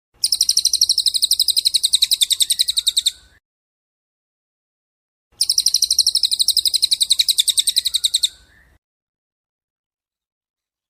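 A songbird's fast, even, high-pitched trill of about ten notes a second, sung twice for about three seconds each time, each run ending in a short rising note.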